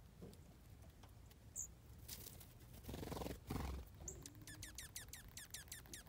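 A songbird gives a short high note, then about four and a half seconds in sings a quick run of about eight steeply falling whistled notes, roughly six a second. A brief louder rush of noise comes about three seconds in.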